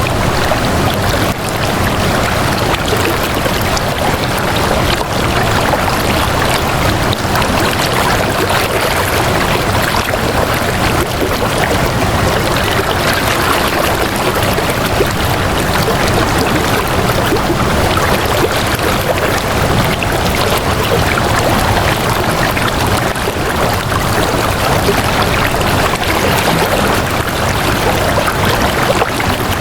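Flowing water, a steady, unbroken rush like a stream running.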